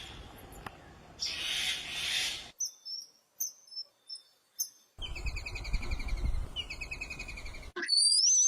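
High-pitched bird chirps and whistles in short separate calls, then rapid repeated chirping trills like insects or crickets over a low rumble, and a single rising whistle near the end. A rushing hiss fills the first couple of seconds.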